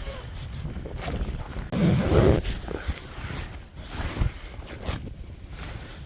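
Wind gusting in rain, buffeting the microphone with a low rumble, with a stronger gust about two seconds in.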